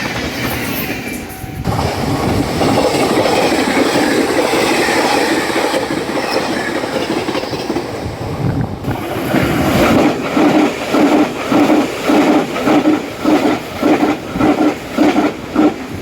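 Taiwan Railways trains passing at high speed, a loud steady rush of wheels on rail. In the second half the wheels clatter over bolted rail joints in a regular rhythm of about two beats a second.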